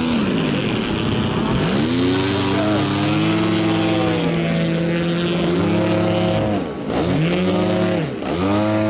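Model aircraft piston engine running, its note rising, holding and falling again several times.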